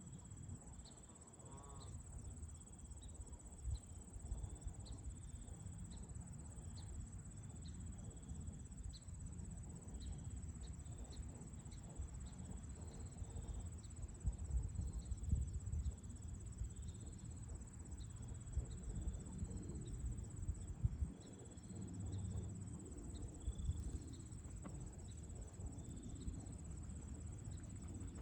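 Insects, crickets among them, trilling as one steady high note, with short chirps repeating irregularly over it. Gusty wind rumbles low and unevenly underneath.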